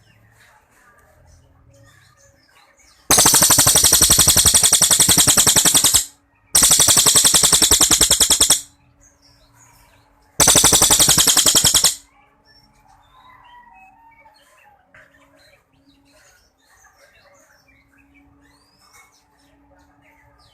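Cililin songbird giving its rapid machine-gun-like 'tembakan' trill in three long, loud bursts, each a very fast run of notes lasting two to three seconds, with short gaps between. Faint chirps of other birds and a low steady hum fill the quieter stretches.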